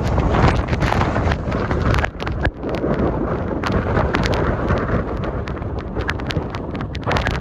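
Gusty blizzard wind buffeting the microphone, a loud rumbling rush with many short, sharp ticks scattered through it.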